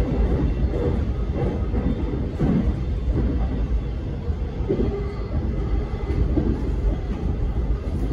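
Alstom X'Trapolis electric suburban train running along the line, heard on board: a steady deep rumble of wheels on track with a rushing noise above it.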